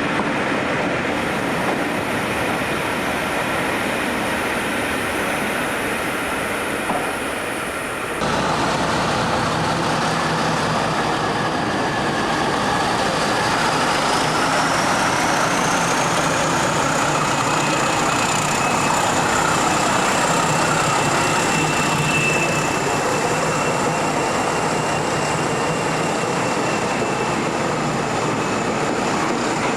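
A train running on rails, with a steady rumble and rattle; the sound changes abruptly about eight seconds in, and after that a high whine rises in pitch and then holds steady.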